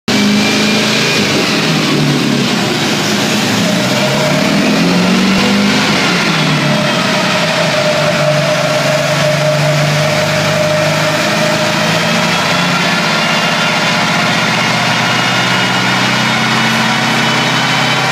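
Meyers Manx dune buggy's engine running on a chassis dyno, the engine speed drifting down and up a little rather than holding one steady pitch.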